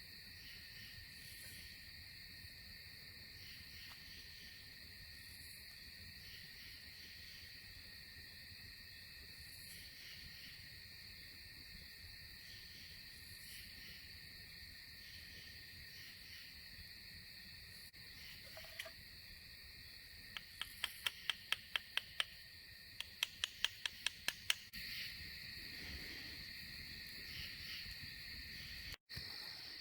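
Crickets trilling steadily in a night-time insect chorus. About two-thirds of the way through, two quick runs of sharp clicks come, a few each second.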